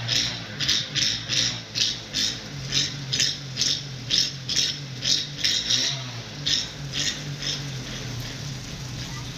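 Rapid, uneven rattling, about two or three clatters a second, over a steady low hum.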